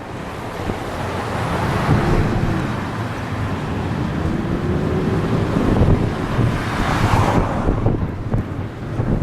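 Airbus A319's jet engines at takeoff power, a loud, steady jet noise that builds over the first two seconds, with a faint rising whine in it; the high hiss drops away about seven seconds in. Wind rumbles on the microphone.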